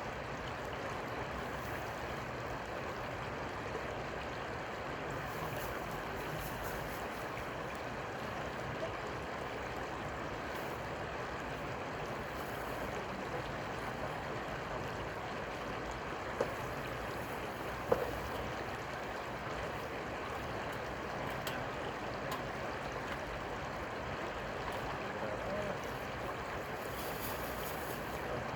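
Steady rushing of river water, even throughout, with two short sharp clicks a second and a half apart just past the middle.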